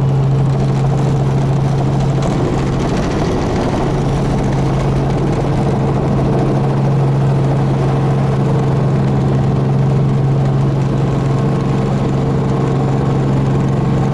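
Helicopter in flight heard from inside the cabin: the steady drone of rotor and engine with a constant low hum.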